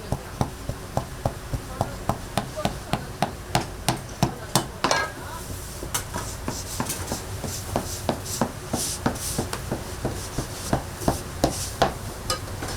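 Quick, regular knocks on a wooden work board while kkwabaegi dough is worked, about two to three a second.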